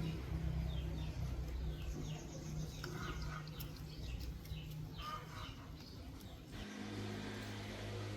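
A steady machine hum that shifts to a lower pitch about two-thirds of the way through, with birds chirping over it.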